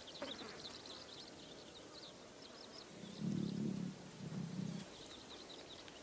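Faint outdoor ambience with small birds chirping repeatedly and high. About halfway through come two short, low sounds, one after the other.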